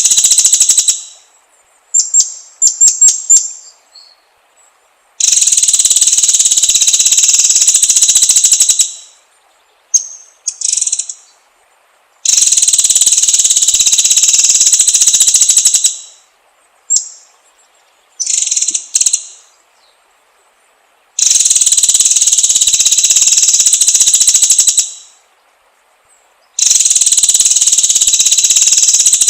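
Long, loud insect buzzes of about four seconds each, fast-pulsing and even, repeating five times. Short bursts of high bird chirps and trills fall in the pauses between them.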